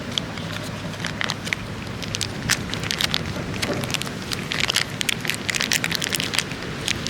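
Heavy rain falling, with many irregular drops and taps, thickest in the second half, over a steady low rumble.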